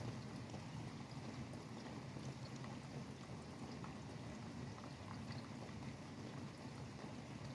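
Steady rain falling, with scattered sharp drop ticks, over a low steady rumble of highway traffic.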